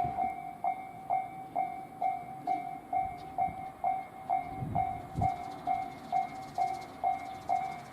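Railway level-crossing alarm ringing, one tone struck evenly about twice a second, while the sound of a train fades away in the first second.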